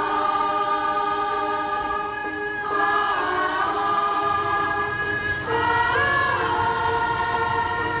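Background music of a choir singing long held notes, the chord changing about every two and a half seconds.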